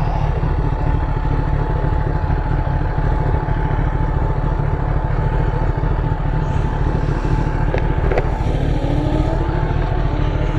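Kawasaki ZX10R's inline-four engine running at low speed, with a heavy, steady low rumble and a steady whine; a rising engine note begins about eight and a half seconds in.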